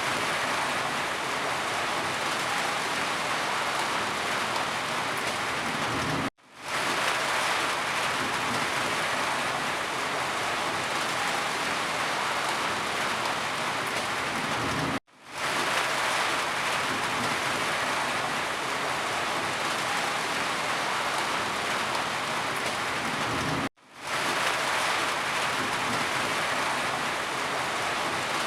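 Steady, heavy rain falling in a dense even hiss. The sound drops out briefly three times, about every nine seconds, then fades quickly back in.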